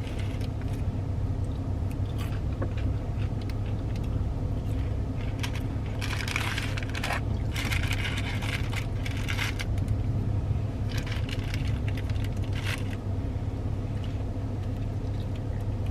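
Close-up eating of a breaded fried-chicken sandwich: chewing and crunching, with bursts of crinkly, crackly noise about six to nine seconds in and again around eleven to thirteen seconds, over a steady low hum.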